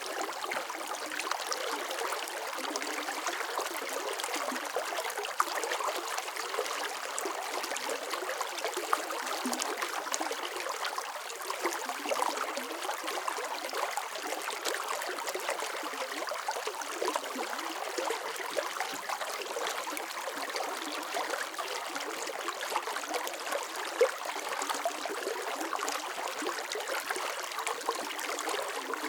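Water flowing steadily in a stream, splashing and trickling, with small bright splashes throughout.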